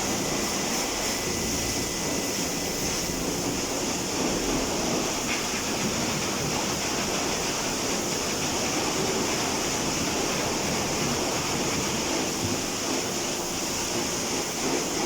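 Water spraying steadily onto a car during a car wash, an even hiss that doesn't let up.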